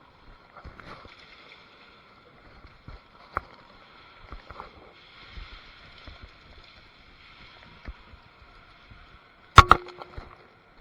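Quiet rustling and scattered small clicks, then two loud, sharp cracks in quick succession about nine and a half seconds in.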